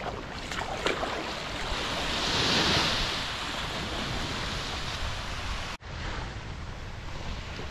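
Waves washing and water rushing, with wind on the microphone. The rush swells about two seconds in and eases off, and the sound cuts out for an instant near the end.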